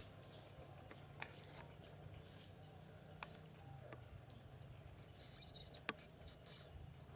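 A baby monkey gives a few short, faint high squeaks, scattered among light clicks.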